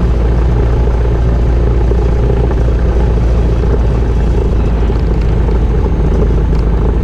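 Cessna 172RG's 180 hp piston engine and propeller running steadily, heard from inside the cabin, with no change in power.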